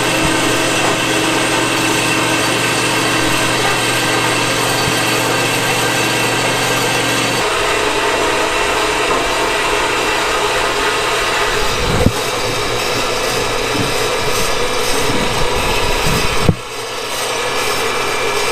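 A power tool running continuously. Its low hum drops out about seven and a half seconds in, a sharp knock comes about twelve seconds in, and another knock near the end is followed by a brief dip in level.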